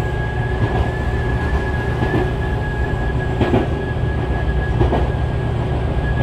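Tobu 6050 series electric train running, heard from inside the car: a steady rumble of wheels on rails with a thin, steady high tone. Three short knocks from the track come about a second and a half apart in the middle.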